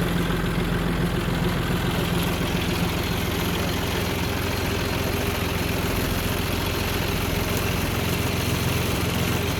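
Motor vehicle engine running steadily: an even low hum that keeps the same pitch throughout, with no revving or stops.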